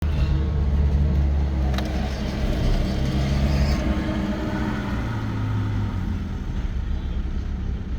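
Volkswagen 1.9 TDI PD (BXE) four-cylinder unit-injector diesel engine running at a steady speed, with a single click a little under two seconds in.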